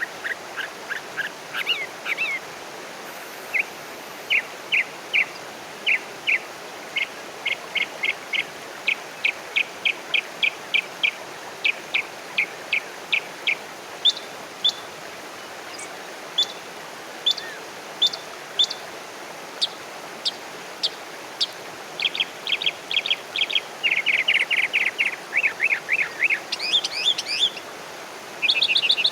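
Wild birds chirping: runs of short, sharp notes repeated two or three a second, higher-pitched notes from about halfway through, and a quicker run of chirps near the end, over a steady background hiss.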